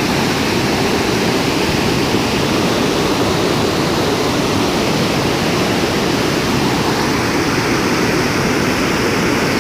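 Large waterfall's steady rush of falling water: a loud, even roar, heaviest in the low range, that does not change.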